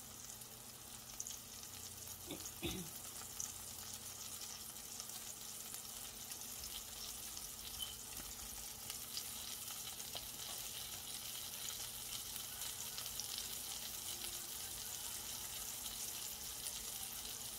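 Plant-based burger patties frying in a stainless steel skillet: a steady sizzle with scattered fine crackles that slowly grows louder.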